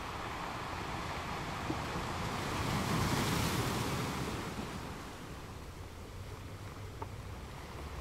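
Shallow lagoon water washing and lapping, with wind. It swells to a louder rush about three seconds in, then eases off.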